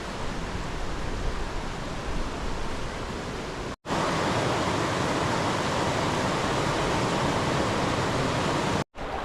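River Esk rushing steadily over rocks, heard in two shots cut together: the water sound drops out abruptly about four seconds in and comes back louder and brighter.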